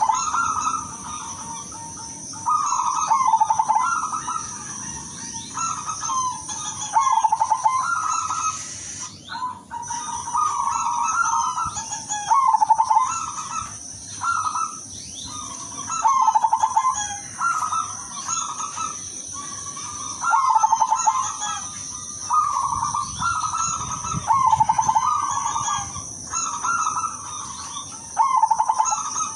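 Silver zebra dove (perkutut) cooing over and over, its low rolling coo phrases coming every second or two.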